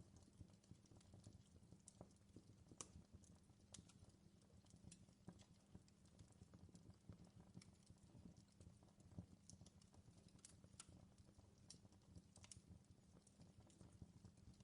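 Faint fireplace crackle: irregular pops and snaps over a low, steady rumble.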